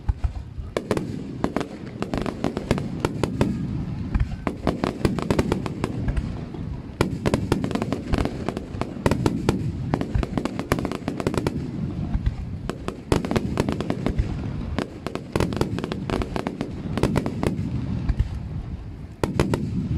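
Aerial firework shells bursting in a rapid, continuous barrage: many sharp cracks and crackles one after another over a steady low rumble.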